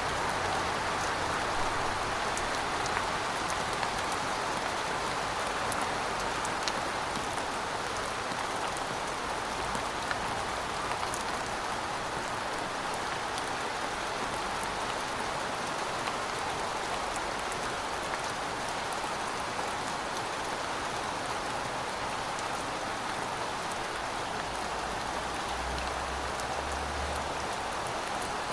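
Heavy rain falling steadily: an even hiss with scattered ticks of individual drops. A faint low hum joins it briefly near the end.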